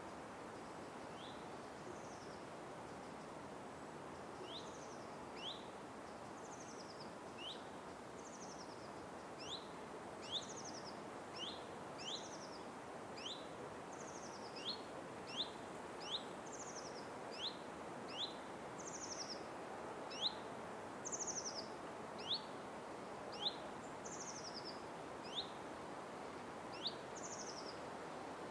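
Small songbirds calling in a forest: short rising chirps about once a second, alternating with higher, falling, buzzy notes, over a steady background hiss.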